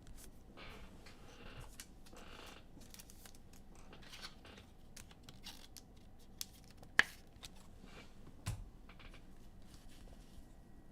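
Sports trading cards and packs being handled: faint swishes of cards sliding and crinkling, with scattered light clicks, one sharper click about seven seconds in and a dull knock soon after.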